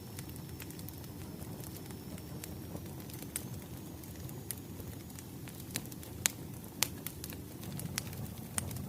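Wood fire crackling: a steady low rumble of burning logs with scattered sharp pops, two louder pops about two-thirds of the way in.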